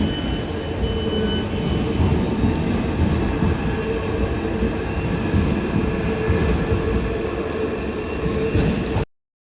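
Class 465 electric multiple-unit train moving along the platform: a steady rumble with a constant motor hum and, in the first couple of seconds, a high wheel squeal. The sound cuts off abruptly near the end.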